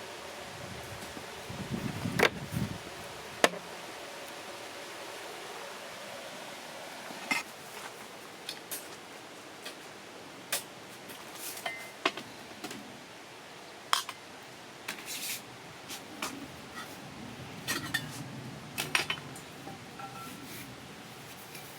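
Intermittent light clicks, clinks and knocks of small objects being handled, over a steady faint hum.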